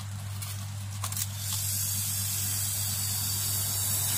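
Refrigerator compressor, salvaged from an old fridge and rewired as a vacuum pump, running with a steady low hum. After a brief click about a second in, a hiss of air blowing out of its discharge tube starts and grows louder, the sign that it is drawing air in at the suction side and pumping it out.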